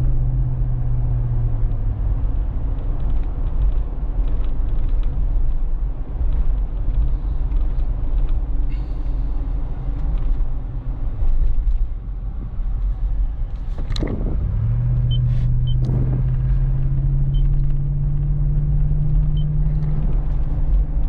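Cabin sound of a 2013 Lexus GX460 under way with a Magnaflow exhaust: a steady low rumble from the 4.6-litre V8 and the road. A steady drone fades out about two seconds in and returns about two-thirds of the way through. Just before it returns there are two sharp knocks, about two seconds apart.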